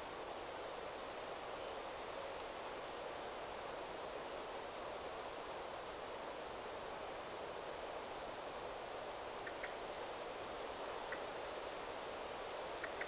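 Steady rustle of wind through forest trees, with a small bird giving five short, very high-pitched calls spaced a couple of seconds apart.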